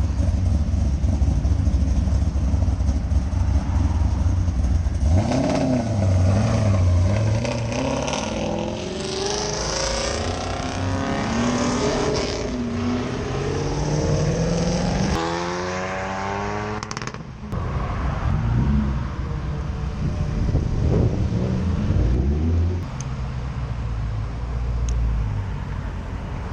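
Performance car engines revving and accelerating: a deep, steady rumble for the first five seconds, then several rises and falls in engine pitch, with one strong climbing rev about two thirds of the way through.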